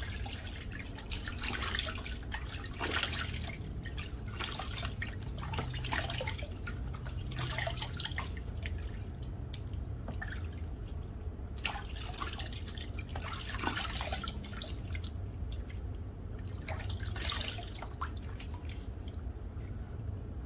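Water splashing and dripping at a sink as a face is rinsed by hand, in irregular splashes over a steady low hum.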